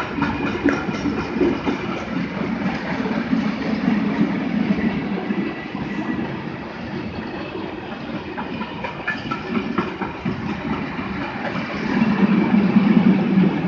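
A train running on the rails: steady running noise that swells twice, with scattered short clicks.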